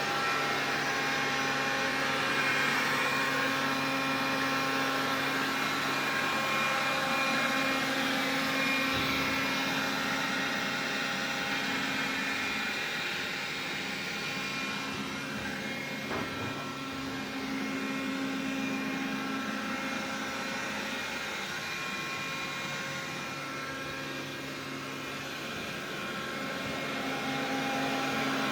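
Xiaomi vacuum cleaner running, with a rushing hiss and several steady whining tones from its motor, the level slowly swelling and fading. This is the extraneous noise the owner is documenting. A small click comes about halfway through.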